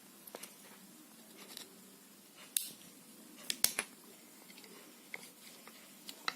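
Scattered small plastic clicks and light scrapes as the snap-lock clips of a hair straightener's plastic housing are pushed and prised out of place, the sharpest two clicks coming near the middle.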